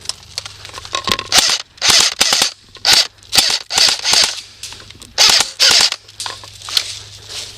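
Airsoft guns firing in quick short bursts, about a dozen sharp cracks and rattles packed into the middle seconds, then easing off near the end.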